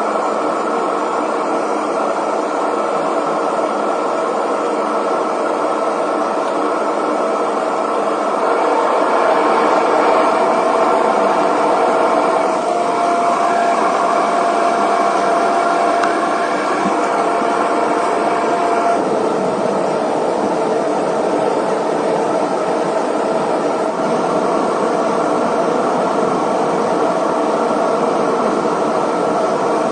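Airliner jet engines running with a steady, loud rushing noise. A steady whine joins in for several seconds in the middle.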